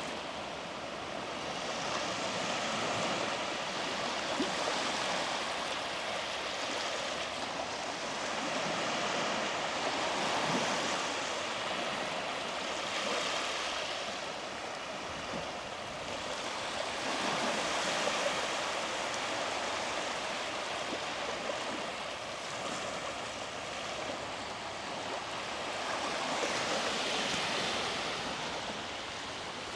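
Sea waves breaking and washing up the shore, a hiss that swells and fades every several seconds.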